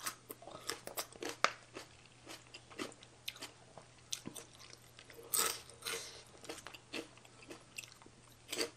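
Close-miked chewing and biting of crunchy food, with many irregular crisp crunches, the loudest about five seconds in and again near the end.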